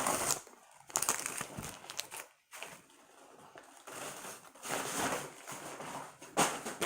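Paper fast-food bags and fry cartons being handled and crinkled, in irregular rustling bursts with short pauses between.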